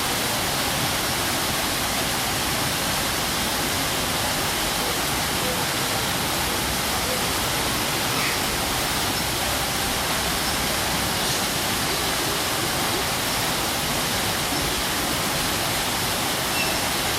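Waterfall: water falling and splashing onto rock, a steady rushing noise without change.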